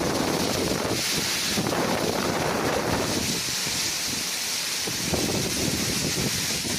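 Hurricane-force wind blowing hard across the microphone, in uneven gusts that swell and ease.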